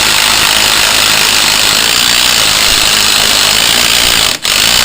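Cordless impact wrench hammering steadily as it drives a puller's forcing screw to pull a part off the engine, with a brief let-up near the end.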